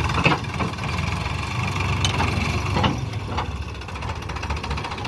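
Sonalika 50 RX tractor's diesel engine idling steadily, with a few short sharp clanks over it.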